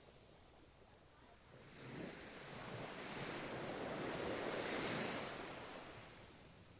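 Ocean wave washing in on the shore: a hiss of surf that swells up about two seconds in, is loudest a little past the middle, then fades away.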